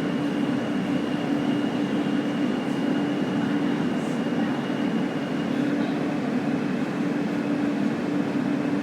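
Subway train running steadily, a continuous rumble with a faint high whine that fades out a little past halfway.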